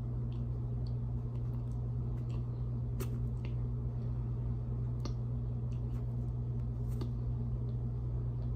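Cornstarch being chewed: scattered soft crunching clicks, with three sharper ones about two seconds apart, over a steady low hum.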